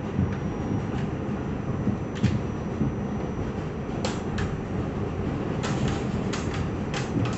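Subway train running with a steady low rumble and a faint high whine, with a series of sharp clicks and rattles in the second half.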